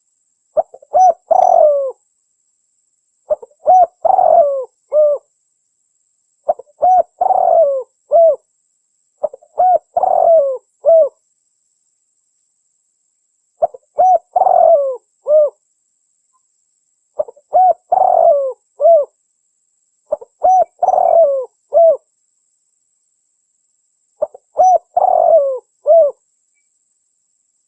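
Spotted dove (tekukur) cooing: a recorded lure call for attracting wild doves, with about eight repeated coo phrases, each a second or two long, separated by short silent gaps.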